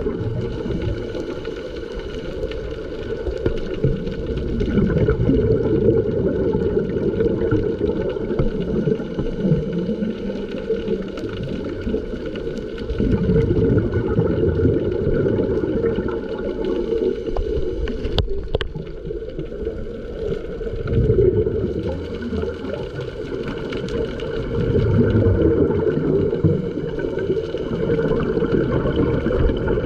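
Underwater sound through a camera housing: low bubbling and rumbling that swells every several seconds, over a few faint steady tones.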